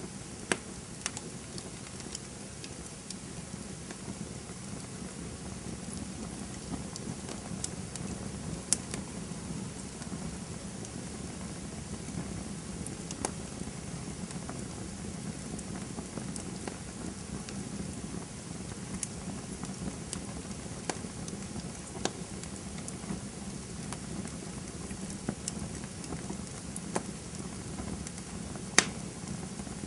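Campfire burning with a steady hiss and a low rumble, broken by sharp irregular crackles and pops of burning wood, a few of them much louder than the rest.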